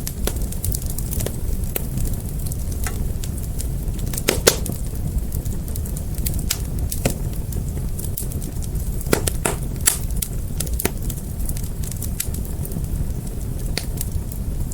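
Fire crackling: a steady low rumble of flames with frequent sharp pops and snaps, the loudest about four and a half seconds in.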